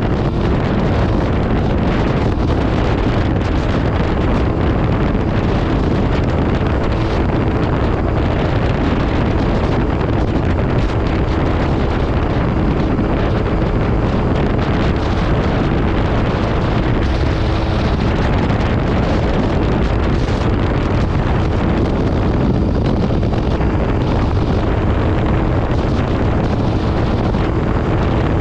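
MV Agusta Brutale 800RR's three-cylinder engine with an SC Project exhaust, running while the bike is under way at a fairly steady engine note. Heavy wind buffeting on the microphone covers much of it.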